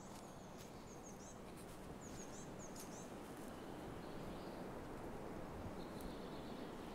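Woodland ambience: a steady haze of outdoor background noise with short, high bird chirps in the first half and a faint high, steady insect-like buzz twice in the second half.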